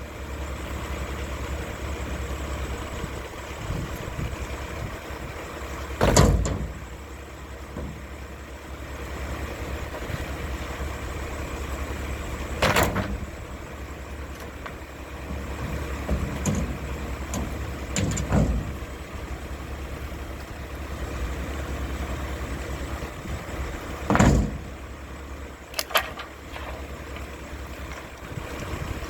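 Mack LR garbage truck's diesel engine idling steadily, with five loud bangs spread through, about six seconds apart and the last one doubled.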